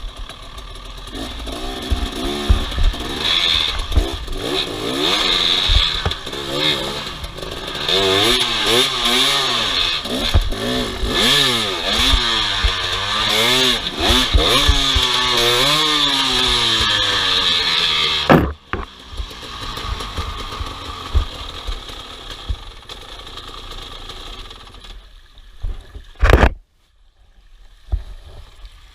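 Off-road motorcycle engines revving up and down again and again, with knocks and clatter. About 18 seconds in the engine sound cuts off abruptly to a quieter hiss, and a short loud burst comes near the end.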